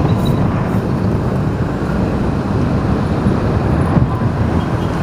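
Steady engine and road noise of a car driving, heard from inside the cabin, a continuous low rumble with no distinct events.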